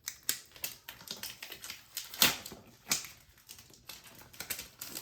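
Plastic protective wrapping crinkling and crackling in irregular sharp clicks as it is peeled off a new hair dryer by its pull tab.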